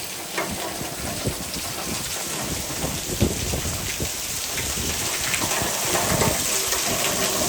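Heavy rain driven sideways by strong wind, a dense rush of water with many sharp spatters of drops, growing louder toward the end.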